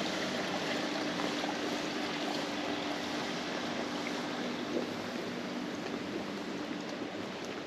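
Steady hiss of running water with a faint low hum under it.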